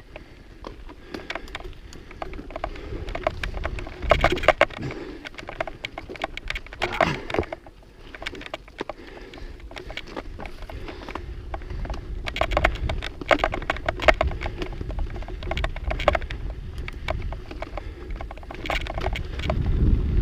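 Mountain bike being ridden over rough trail: a dense, irregular clatter of rattles and clicks from the bike and tyres, over a low rumble that grows louder near the end.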